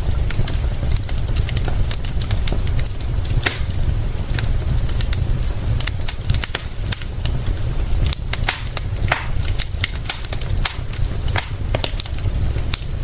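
Wood fire crackling, with sharp irregular pops and snaps, over a steady low rumble.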